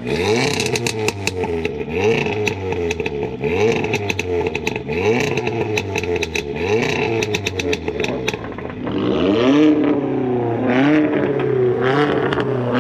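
Modified car engine revved hard again and again, a blip about every one and a half seconds, with a rapid crackle of pops between the blips. After about eight seconds the revs rise and fall more slowly and the crackling stops.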